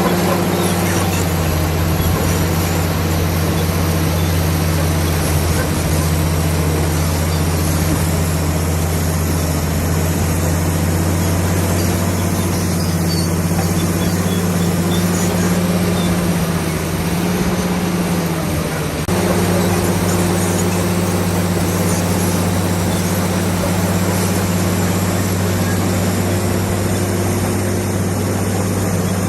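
Komatsu D65PX bulldozer's diesel engine running steadily under work. Its deep, even note sags briefly a couple of times, and the sound changes abruptly about two-thirds of the way through.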